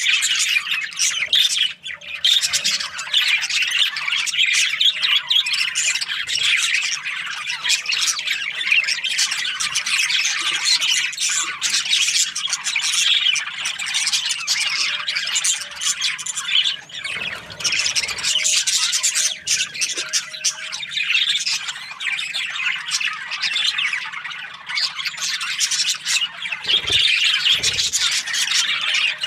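A flock of budgerigars chirping and chattering continuously, many birds calling over one another in a dense high twitter.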